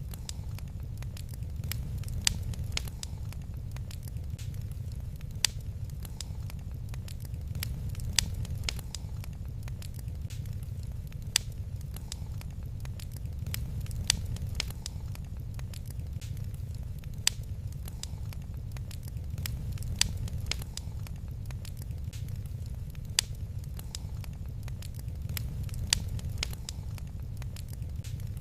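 Wood fire crackling in a fireplace: many small crackles and a sharp pop about every three seconds over a steady low rumble.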